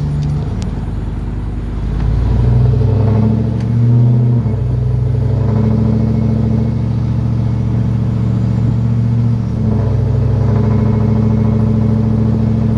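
Truck exhaust through true dual 2.5-inch pipes with an X-pipe, no catalytic converters, and single-chamber Flowmaster 10 Series mufflers, heard from the cab with the windows down while driving. The engine pulls up in revs, drops briefly about four seconds in as if shifting, and then holds a steady low drone, with another short dip near the end.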